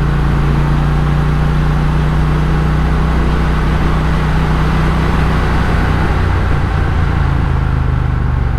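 Triumph Speed Twin parallel-twin motorcycle engine pulling at steady revs on a mountain climb, with wind and road noise over the microphone.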